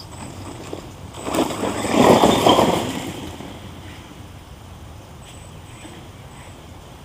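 Redcat Volcano electric RC monster truck driving: a loud rush of motor and tyres for about two seconds, then fading to a low, distant hum.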